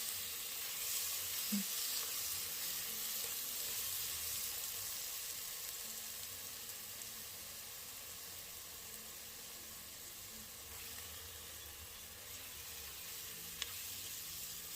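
Butter-and-flour roux sizzling steadily in a pot as it is stirred, with a light click of the utensil against the pot near the end.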